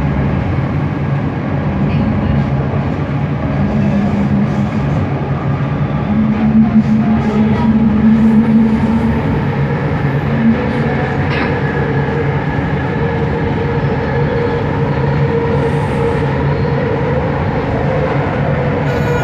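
Bombardier Innovia ART 200 metro train running, heard from inside the car: wheel and track noise under the hum of its linear induction motors. A steady low motor tone is joined by a higher tone between about 3 and 9 seconds in, and a still higher tone holds through the second half.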